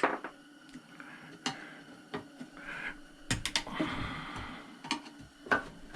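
Sharp clicks and knocks of metal parts as a steel piece is worked off a chop saw, with a short scraping rub about four seconds in.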